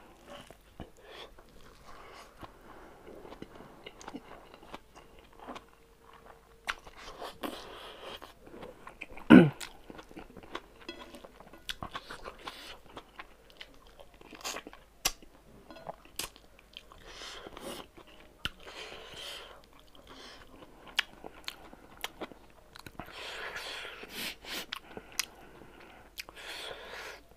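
Close-miked chewing and wet mouth sounds of a person eating rice with smoked pork by hand, with many small clicks and smacks. One loud thump comes about nine seconds in.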